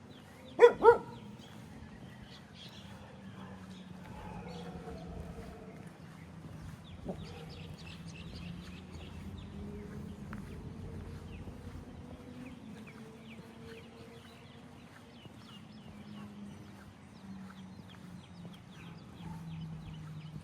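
A dog barks twice in quick succession about a second in. Footsteps tick on paving throughout, over a faint low hum.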